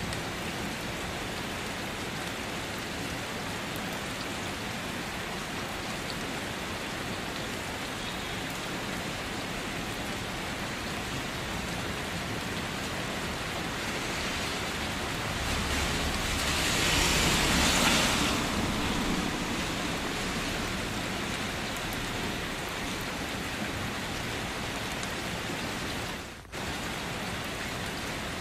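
Steady rain falling on a city street, an even hiss. Past the middle it swells louder for about three seconds with a low rumble underneath, then settles back. There is a brief dropout about 26 seconds in.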